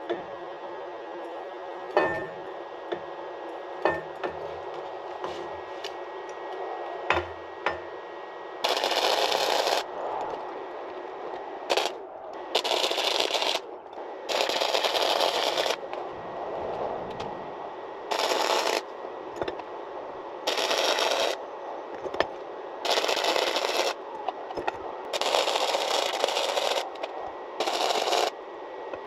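Wire-feed (MIG) welding gun laying a weld on a steel scooter fork in short bursts: about eight crackling, sputtering runs of the arc, each a second or so long, starting and stopping sharply as the trigger is pulled and released. A few light clicks come before the welding starts.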